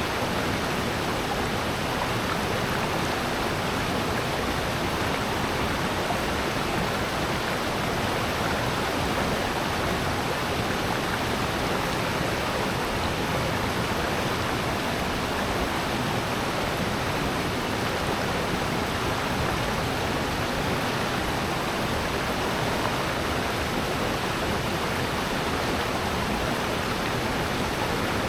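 Steady rushing of a valley stream and waterfall: water pouring over rocks, an even, unbroken noise.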